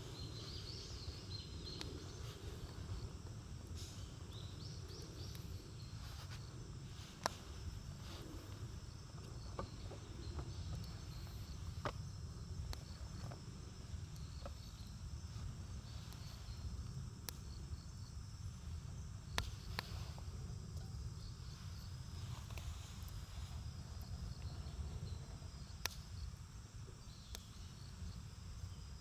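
Wood campfire burning, with a handful of sharp crackling pops spread through it over a low steady rumble. Insects chirp faintly in the background.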